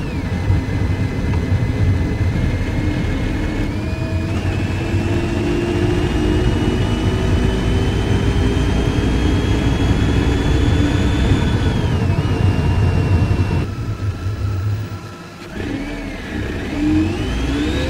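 2003 Mercedes C180 Kompressor's supercharged M271 four-cylinder engine pulling the car along under way, with a thin supercharger whine that climbs slowly with engine speed for several seconds. The whine drops away about twelve seconds in, the sound dips briefly as for a gear change, then the whine climbs steeply again as the engine accelerates.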